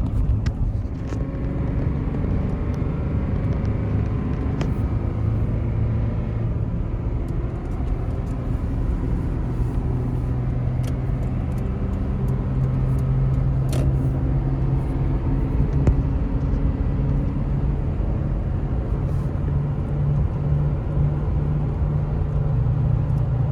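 2007 Toyota Tundra driving on the road: steady engine and tyre drone with no grinding, its front diff needle bearing now replaced by a bushing and the CV axle new. The low hum grows a little louder and higher in the second half.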